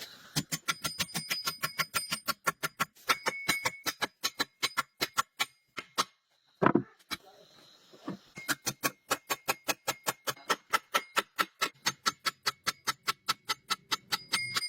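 A ratchet mechanism clicking rapidly and evenly, about six metallic clicks a second with a slight ring. The clicking stops for about two seconds midway, broken by a single knock, then resumes.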